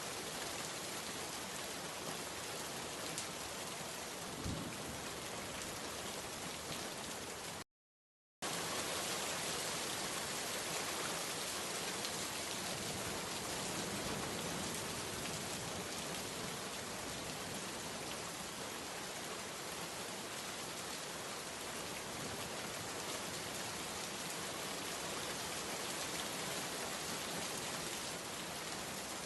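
Steady heavy rain falling on surfaces, an even hiss with spattering drops. About eight seconds in, the sound cuts out completely for under a second, then resumes.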